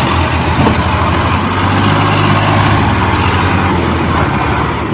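Heavy diesel engine of earth-moving machinery running steadily with a deep low hum and a churning mid-range, easing slightly near the end.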